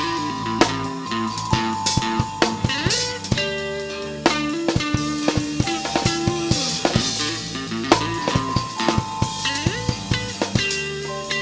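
Instrumental rock music: a drum kit, guitar and bass play under a synth melody of held notes.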